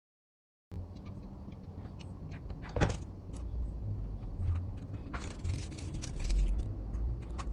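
Crafting and handling noises at a workbench: scattered small clicks, one sharp click about three seconds in, and a stretch of scraping about five seconds in.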